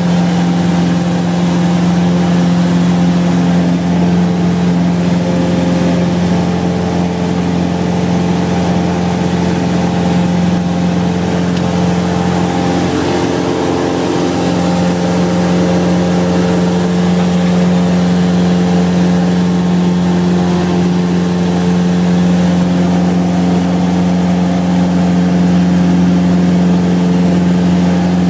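Cessna 172 floatplane's piston engine and propeller running steadily on the water before takeoff, the pitch wavering briefly about halfway through.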